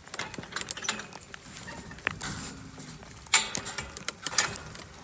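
Scattered clicks and knocks as something is closed back up by hand, with one sharp knock a little over three seconds in.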